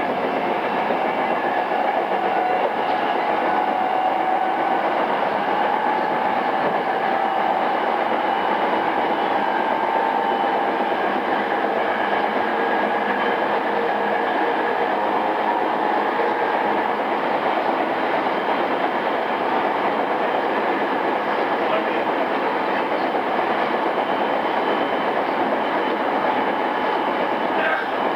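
Interior running sound of a pre-renewal JR East E217 series commuter train, heard in motor car MoHa E217-2006, travelling steadily at speed: an even rumble of wheels on rail with steady whining tones from the traction motors and gearing. It is a cassette recording, with little above about 6 kHz.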